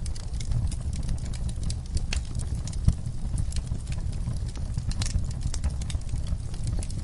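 Wood fire in a fireplace crackling, with irregular small snaps and pops over a low steady rush of flames; one sharper pop about three seconds in.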